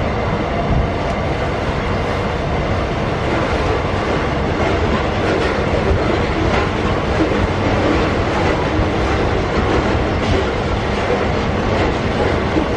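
Loaded iron-ore wagons of a very long freight train rolling past, a steady rumble of steel wheels on rail with occasional clicks.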